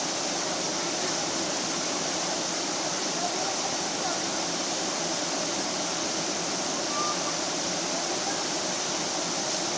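Waterfall rushing steadily, an even hiss of falling water with no change in level, with a few faint short whistled notes over it.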